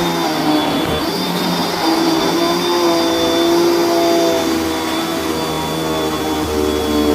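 Vacuum cleaner running steadily, a motor hum with a high whine on top, its pitch shifting slightly as the load changes.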